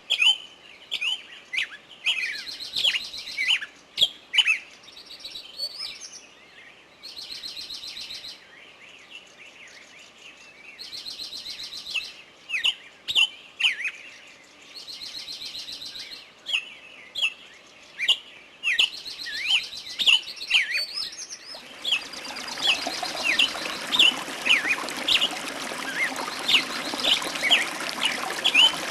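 Several wild birds chirping and singing in a forest, with short rapid calls and a buzzy trill repeated every few seconds. About three-quarters of the way in, a steady rush of running water joins under the birds.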